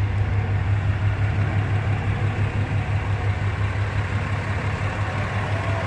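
Cummins 6.7-litre inline-six turbo diesel of a 2014 Ram 2500 idling steadily with an even low rumble.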